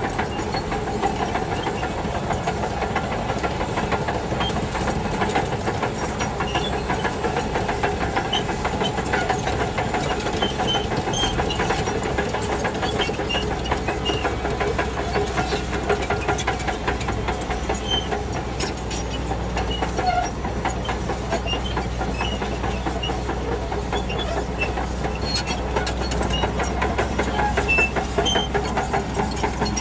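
Shantui DH17C2 crawler bulldozer working under load: its diesel engine runs steadily over a fast clatter of steel tracks. Short high squeaks are scattered through it, and the low engine note deepens and strengthens about halfway through.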